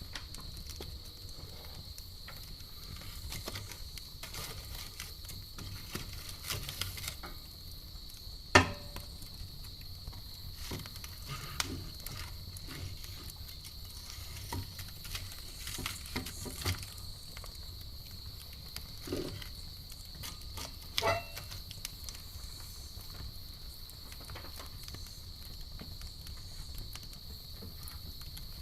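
Campfire crackling with scattered sharp pops, the loudest about a third of the way in, over a steady high-pitched chirring of crickets.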